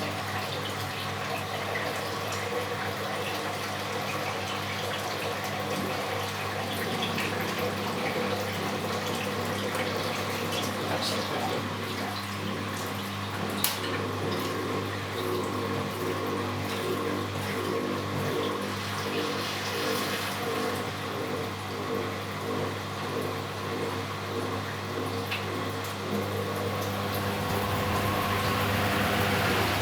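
Philco Bendix W84RX washing machine running its wash cycle: water sloshing and splashing in the turning drum over a steady motor hum, with one sharp click partway through. Near the end the machine grows louder.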